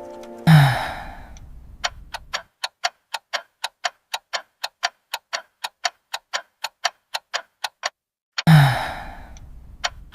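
A clock ticking fast and evenly, about three ticks a second. A loud breathy sigh-like sound comes twice, about half a second in and again near the end, each fading over about two seconds.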